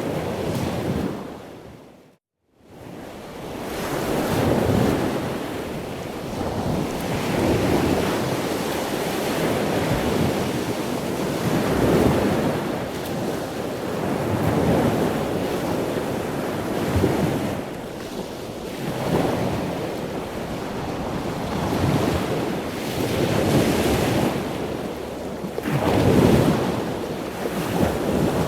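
Ocean surf: waves washing in one after another, swelling and ebbing every two to three seconds. About two seconds in, the sound fades briefly to silence and then swells back.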